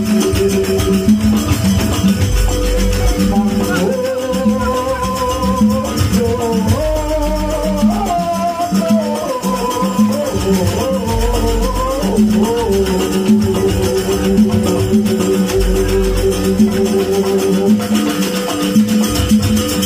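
Jaranan gamelan ensemble music: a wavering, sliding melody over sustained steady tones and repeated low drum beats.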